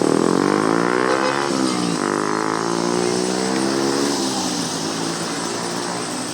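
A motor vehicle engine accelerating. Its pitch rises, drops about a second and a half in as it shifts gear, rises again, then eases off and settles lower after about four seconds.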